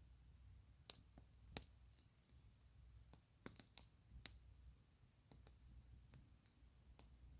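Campfire crackling faintly: irregular, scattered sharp pops and snaps of burning wood, about eight in a few seconds.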